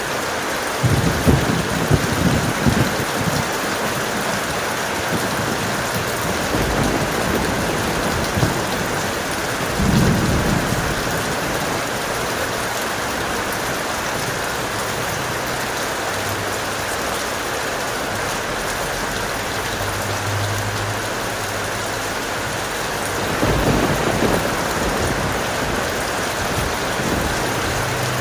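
Steady heavy rain with thunder rumbling low several times: a burst of rumbles about a second in, others near 7 and 10 seconds, and a longer roll near the end.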